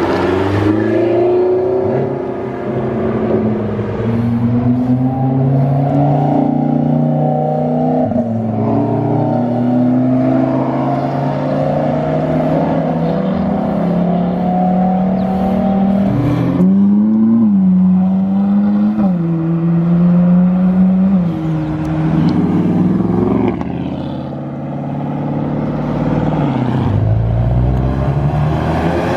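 Car engine running hard and accelerating. Its pitch climbs and drops back several times in the second half, as at gear changes.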